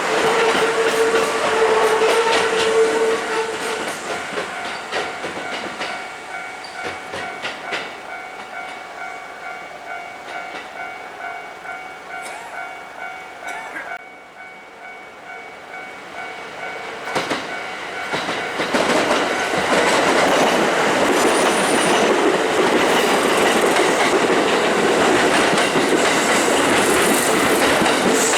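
Kintetsu electric trains passing over a level crossing. One train is running by with its wheels clacking over the rail joints and fades away after about four seconds, while the crossing's warning bell keeps sounding in a steady repeating pattern. A second train comes in about seventeen seconds in and passes loudly.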